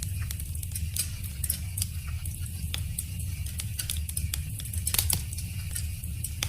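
Wood fire crackling, with many irregular sharp pops and snaps over a steady low rumble; one louder snap about five seconds in.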